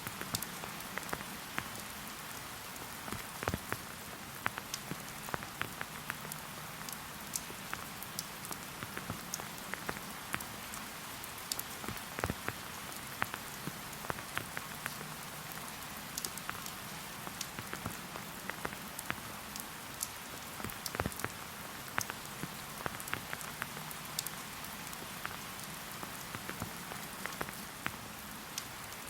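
Steady rain falling in a forest: an even hiss with many close, irregular drops ticking sharply on top.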